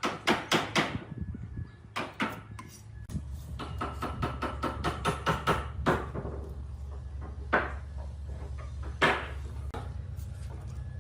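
A series of sharp knocks, as of hard strikes on wood: a quick run of them at the start, lighter rapid taps in the middle, then single knocks every second or so. A steady low hum comes in about three seconds in.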